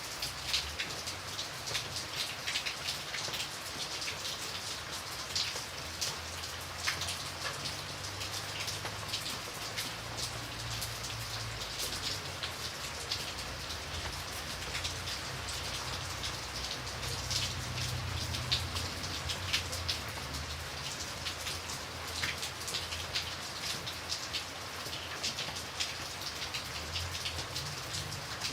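Steady rain falling, with many distinct drops pattering on a surface over a low, soft rumble.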